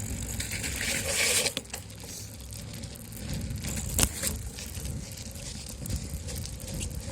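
Wind buffeting a handlebar-mounted camera's microphone on a moving bicycle, over a steady rumble from the ride, with a short hissing crunch about a second in and a sharp knock about four seconds in.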